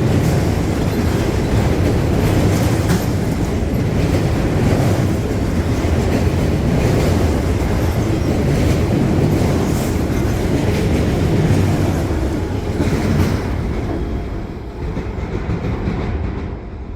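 CSX freight train rolling past at close range: a steady rumble of wheels on rail with scattered clicks as wheels cross rail joints. The sound thins out and drops a little over the last few seconds.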